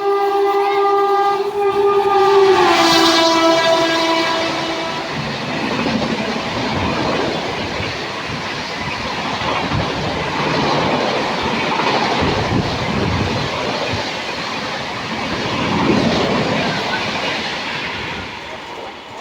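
Indian Railways train sounding its horn as it passes, the horn dropping in pitch as it goes by and stopping about five seconds in. The horn gives way to the rattle and clickety-clack of the coaches rolling past, which fades near the end.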